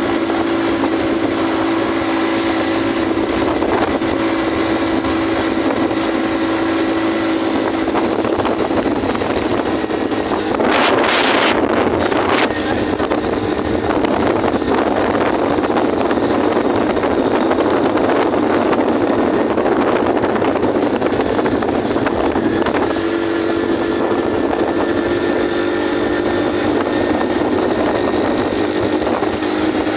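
125 cc single-cylinder motorcycle engine running steadily while riding, with wind rushing over the microphone. The engine note fades under the wind noise for a stretch in the middle, with a brief loud rush of noise about eleven seconds in.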